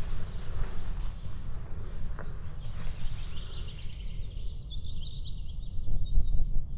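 Small songbirds chirping, with a quick run of high chirps from about halfway through, over a steady low rumble. A few faint ticks come in the first few seconds.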